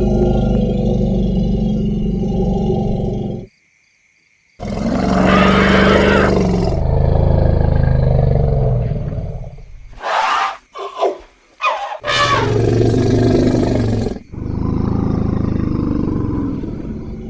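Elephants calling in a string of edited takes: deep, pitched rumbling moans and loud roaring calls, with a few short, sharp, high trumpets about ten seconds in. The sound cuts out for about a second near the four-second mark.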